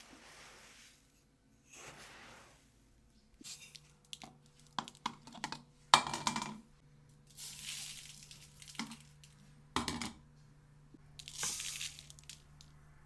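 Kitchen handling sounds: scattered knocks and clinks, the sharpest about six seconds in, with a few short rushing noises in between.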